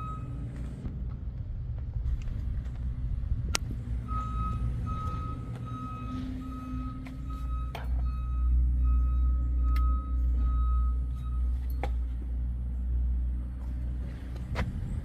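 Vehicle engine running with a steady low rumble, with a repeating high electronic beep, roughly two beeps a second, sounding for several seconds in the middle. A few sharp clicks.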